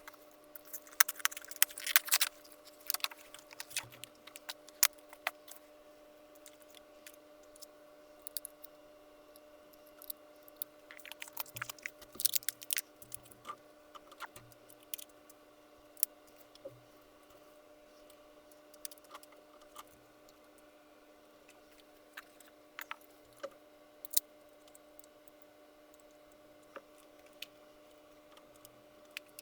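Handling and unpacking an RC crawler and its parts from a carrying case: scattered clicks, light rattles and crinkles of packaging, in clusters, busiest at the start and again around twelve seconds in. A faint steady hum runs underneath.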